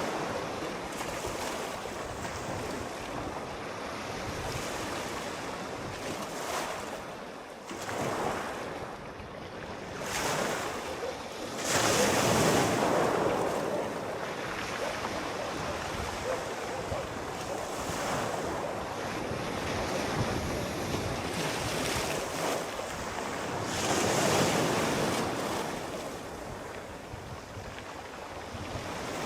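Sea waves rolling in and washing on the shore, swelling and ebbing every few seconds, with the biggest breaks about twelve seconds in and again about twenty-four seconds in.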